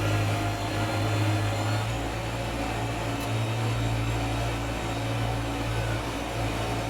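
Diesel engine of a Kubota BX sub-compact tractor running steadily, a constant drone with no change in speed.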